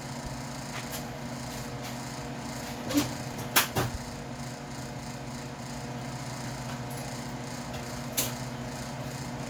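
Steady hum of a noisy electric shop fan, with a handful of sharp clicks and knocks from tools being handled, the loudest about three and a half seconds in.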